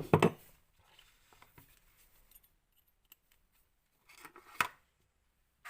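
Light metallic clicks and scrapes from small screws being handled and threaded into a model nitro engine's cylinder head, with a louder cluster of clicks about four and a half seconds in.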